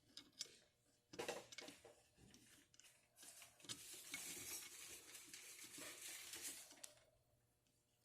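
Faint metal clicks, then a few seconds of steady scraping as a homemade tool screws the needle seat into a Quadrajet carburetor body.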